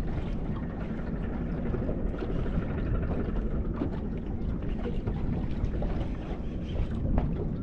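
Steady low rumbling noise of wind and water around a small fishing boat, with a few faint clicks.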